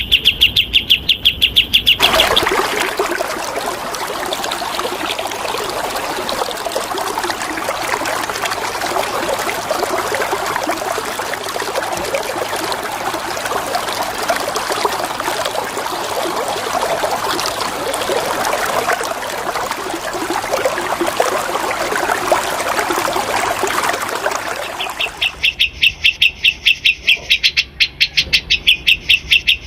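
A bird sings a fast run of repeated high notes. About two seconds in, this gives way to a long stretch of steadily running water. Near the end the rapid repeated notes return.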